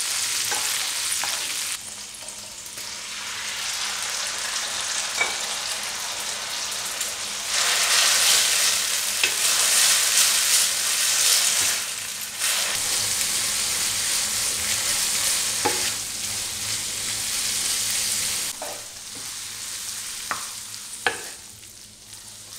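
Sauce sizzling in a white ceramic frying pan, stirred with a wooden spatula that scrapes and taps the pan in short clicks. For several seconds in the middle the sizzle grows louder, as cooked instant noodles are tossed and stir-fried in the hot sauce.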